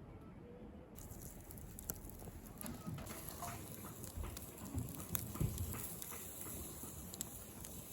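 Irregular light knocks and clatter over a steady hiss that comes up about a second in.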